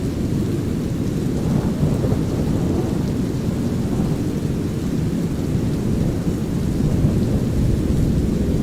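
Steady deep brown noise mixed with light rain and a low rolling thunder rumble, with slight swells in the rumble about two and four seconds in.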